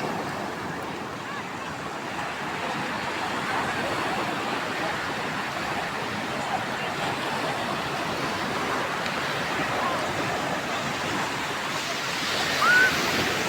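Rough sea surf breaking and washing continuously in a steady rushing noise. Near the end, a brief high-pitched call rises over it.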